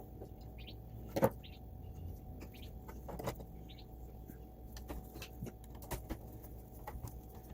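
Scattered light clicks and knocks of a Roomba's plastic parts and hand tools being handled, with one sharper knock about a second in and a few faint, short high squeaks.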